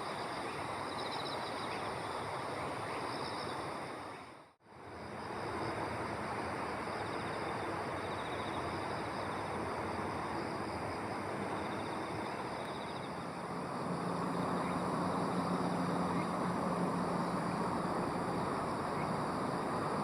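Insects calling outdoors: repeated short pulsed trills over a steady high-pitched buzz, against a constant rushing background noise. About two-thirds of the way through, a low engine hum comes in and continues.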